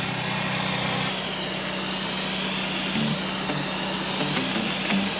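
Steam cleaner lance jetting with a loud hiss that cuts off about a second in, over a steady engine hum that carries on.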